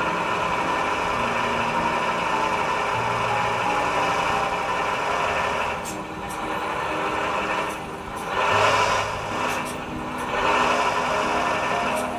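Small hydraulic pump of a radio-controlled model crane truck running steadily, swelling louder twice near the end.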